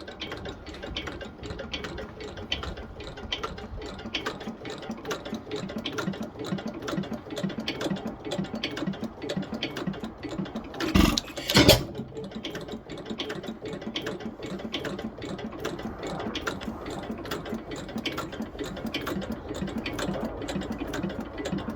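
1912 Pilter YA stationary engine running with a steady, rapid mechanical clatter, broken about halfway through by two louder bangs in quick succession.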